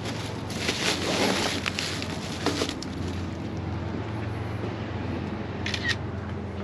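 Car engine running steadily with a low hum, with rustling and a few brief clicks over it.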